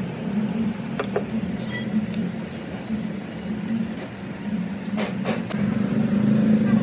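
A machine running with a steady low hum, with a few sharp clicks about a second in and a quick cluster of them about five seconds in.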